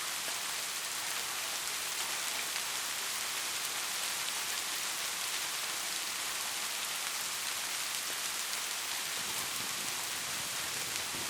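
Steady rain falling, an even hiss of countless drops with no thunder.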